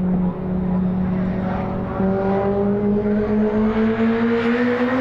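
Time attack race car engine under load, holding a steady note and then climbing slowly in pitch from about two seconds in as the car accelerates.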